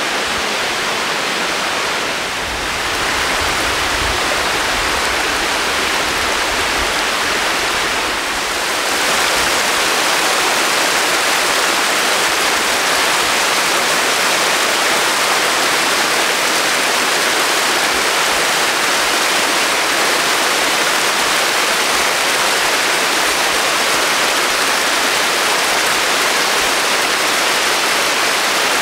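Waterfall: water cascading down the Gütersteiner falls in a steady, dense rush, with two short dips in level about two and eight seconds in.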